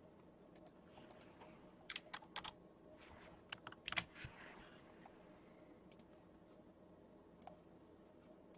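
Faint computer keyboard typing: a few short clusters of keystrokes about two seconds in and again around four seconds, with a stray click later, over a faint steady room hum.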